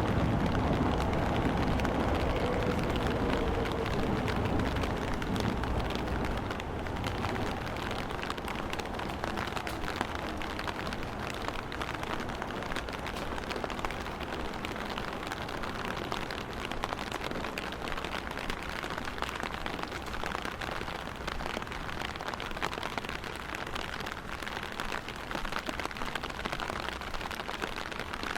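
Steady rain falling, a dense patter of drops. A vehicle's rumble fades out over the first few seconds.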